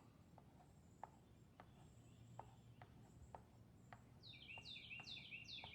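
Faint backyard birdsong: a songbird gives a run of four quick down-slurred notes late on, over scattered faint clicks.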